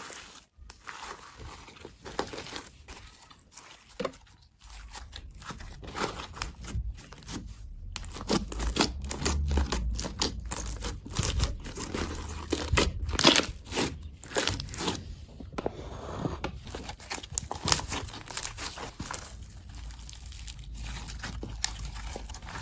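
Slime being squeezed and worked by hand, giving many quick crackles and pops. They come sparsely at first and grow dense and louder midway.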